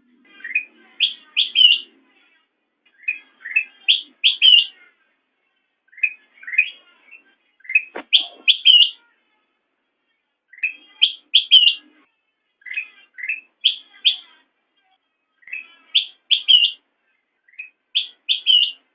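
Kutilang emas, a bulbul, singing: the same short phrase of quick, rising whistled notes is repeated about every two and a half seconds, eight times over. About 8 seconds in a brief click sounds alongside one phrase.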